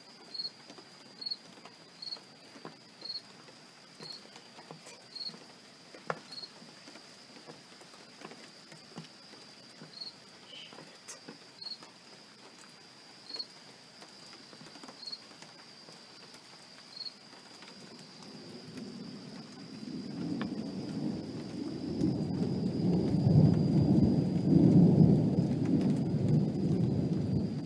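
Rolling thunder builds about two-thirds of the way through and rumbles loudly for several seconds, then starts to fade. Before it there is a quiet storm-night background: scattered drips, a steady high whine, and an insect chirping every second or two.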